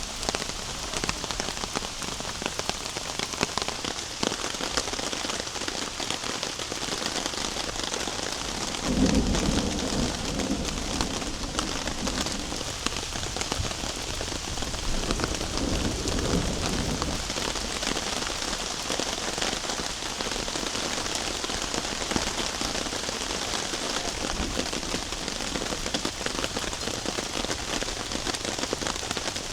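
Heavy rain falling steadily, a dense patter of drops hitting surfaces. A low rumble comes in suddenly about nine seconds in and again more weakly a few seconds later.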